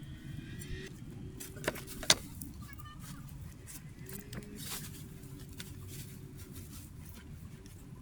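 Steady low rumble of outdoor background noise, with a few sharp clicks, the loudest about two seconds in.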